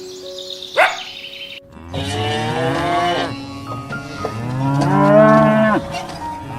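Two long, drawn-out moos from a bovine, the second one louder, over faint background music. A short sharp call comes about a second in.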